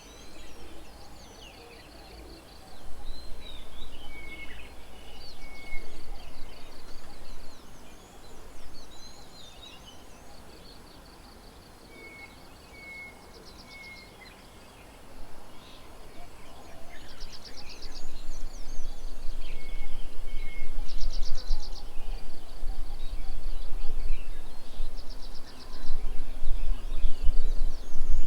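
Several wild birds calling: short repeated whistles, rapid trills and chirps, over a low rumbling noise that comes and goes and grows stronger in the second half.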